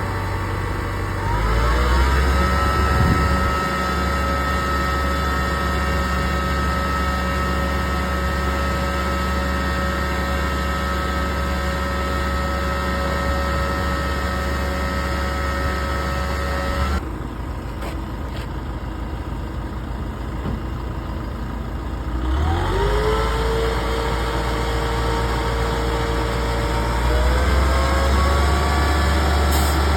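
Sprinkler truck's engine running, sped up to a steady raised speed about a second and a half in, dropping back to a lower, quieter running about halfway through, then raised again in two steps near the end.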